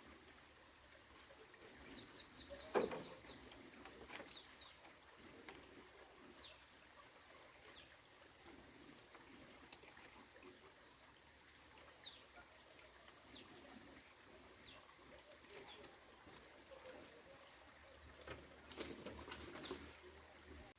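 Faint, short, high bird chirps, each falling in pitch: a quick run of about seven a couple of seconds in, then single chirps every second or two. A knock comes about three seconds in, and there is some clattering rustle near the end.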